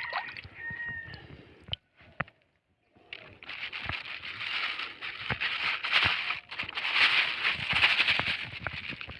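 Old plastic litter being pulled loose and handled, rustling and crackling with many sharp clicks, loudest in the second half after a short pause. A brief high tone sounds in the first second.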